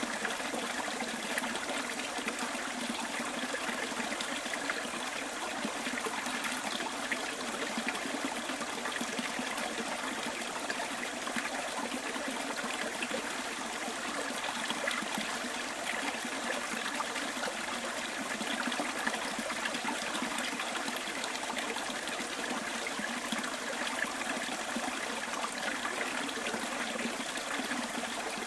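Small bush stream flowing steadily over its bed, a continuous even rush of water with no breaks or changes.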